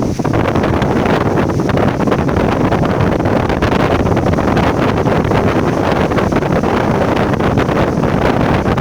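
Wind buffeting the microphone: a loud, steady rumbling noise with no distinct events.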